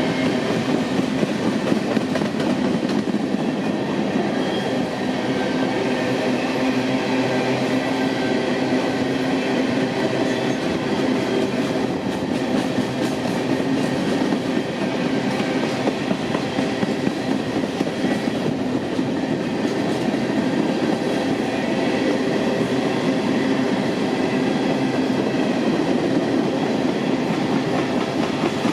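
Empty coal train's freight cars rolling past, steel wheels clicking steadily over the rail joints, with faint steady ringing tones over the noise of the wheels.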